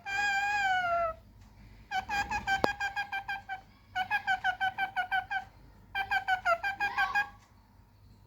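A pet parrot calling: one long, slightly wavering note, then three bursts of rapid, evenly repeated shrill calls, about seven or eight a second, with short pauses between them.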